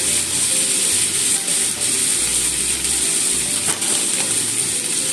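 Cabbage, ham and onion sizzling steadily in a frying pan, with soy sauce just poured in.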